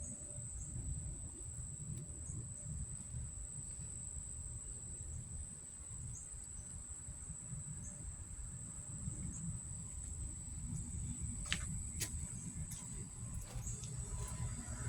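Insects, crickets by the sound of it, calling steadily on one high pitch over a constant low rumble. A few sharp clicks come about three-quarters of the way through.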